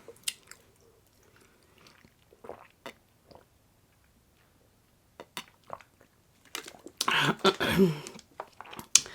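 Close-up chewing of crunchy food: scattered wet mouth clicks and small crunches, a brief lull, then a loud stretch of crunching bites about seven seconds in.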